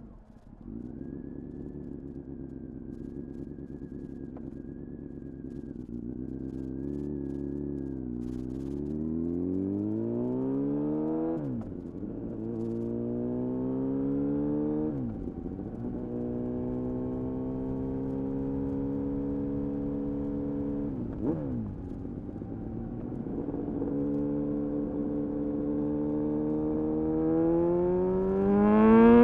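Honda CBR-929RR Fireblade's inline-four engine through an Erion full racing exhaust, pulling away and accelerating through the gears. The revs climb and then drop sharply at three upshifts, hold steady while cruising, and climb hard again near the end, getting louder.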